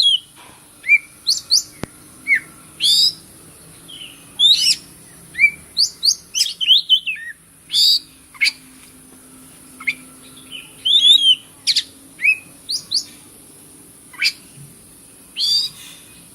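Oriental magpie-robin (kacer) singing a fast, varied run of short sharp whistles and chirps in quick bursts, over a steady high hiss.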